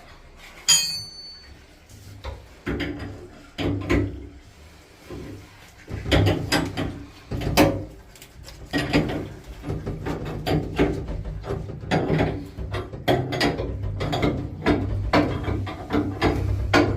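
Clanks, knocks and rattles of hand work on heating pipes and fittings, with a sharp ringing metal clink about a second in. A steady low hum joins about six seconds in under the continuing knocks.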